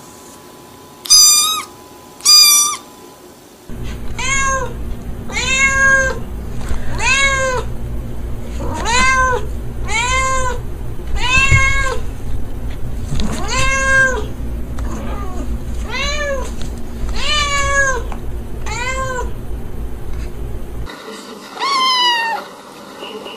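Domestic cats meowing: two short meows, then a cat meowing over and over at about one meow a second over a low steady hum, and near the end a kitten's high meows falling in pitch.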